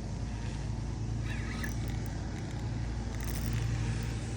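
A steady low engine hum, with a faint brief higher tone about a second and a half in.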